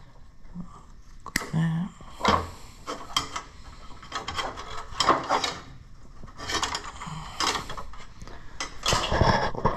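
Irregular clicks, knocks and scrapes of hands working old wiring loose from a garden tractor's frame.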